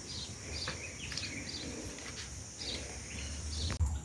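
Faint, scattered bird chirps over low, steady background noise, with a sharp click near the end.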